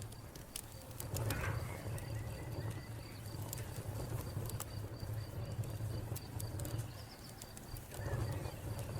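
Wood fire crackling with scattered sharp pops over a low steady rumble, while a cricket chirps continuously in a fast, even pulse and a bird calls briefly.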